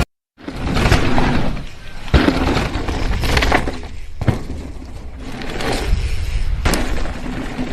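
Noisy clattering and crashing, with a few sharp knocks or smashes about two seconds apart.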